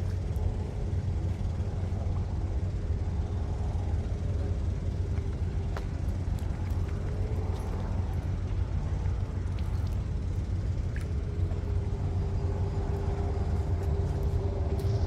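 A motor running steadily: a low rumble with a faint tone that wavers slightly in pitch.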